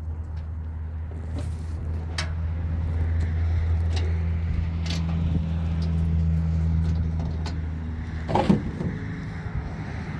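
Car on the move, its engine a steady low drone that swells slightly and then eases off, with a few light clicks and a brief louder clatter near the end.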